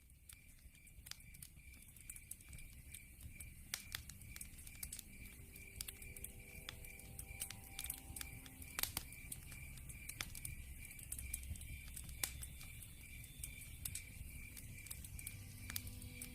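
Wood fire crackling and popping, with sharp irregular snaps over a low rumble, fading in over the first couple of seconds. A steady, evenly pulsed high chirping runs behind it.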